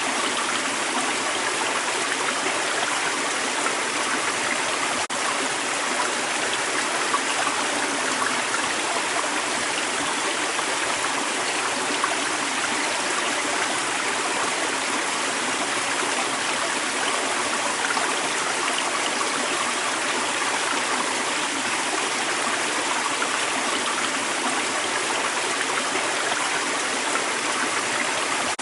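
Creek water running steadily over rocks, a continuous rush with small trickles and gurgles.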